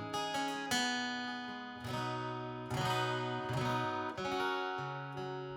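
Acoustic guitar strumming the closing chords of a song, a handful of strums with the last chord left to ring out and fade.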